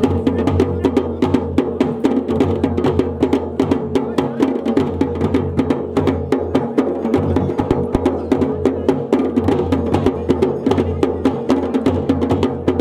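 Dhol and damau drums played together in a fast, steady rhythm, about six strokes a second, over a sustained droning tone.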